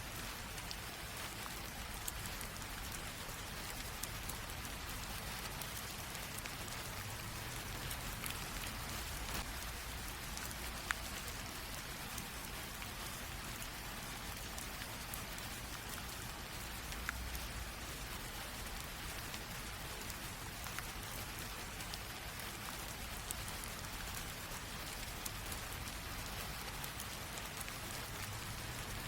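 Light rain drizzle falling steadily, an even hiss with scattered sharper drop ticks and a faint low rumble underneath.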